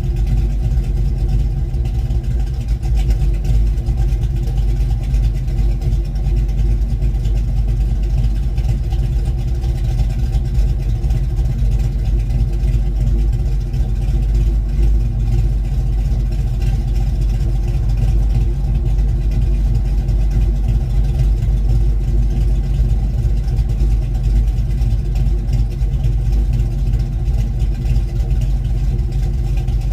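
1972 Ford Mustang Mach 1's V8 running steadily, with a Crane cam, through a Black Widow Race Venom muffler on a single 3-inch exhaust.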